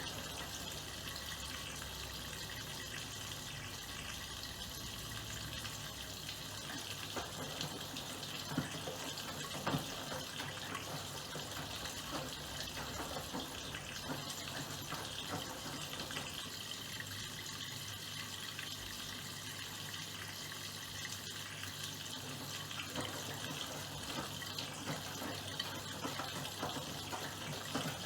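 Miele PW6065 Plus washing machine taking in water: a steady rush of water flowing into the drum, with a couple of brief clicks about a third of the way in.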